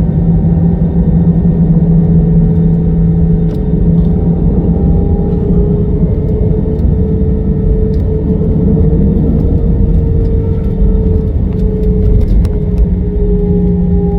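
Airbus A320 jet engines heard from inside the cabin: a loud, steady rumble with engine tones that drift slightly in pitch, and occasional light rattling clicks from the cabin.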